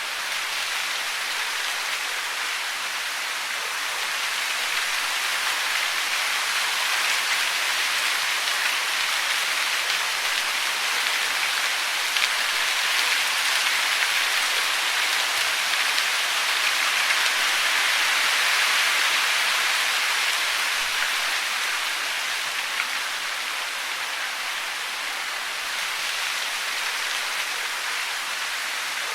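Steady hiss of falling water, swelling a little through the middle and easing again toward the end.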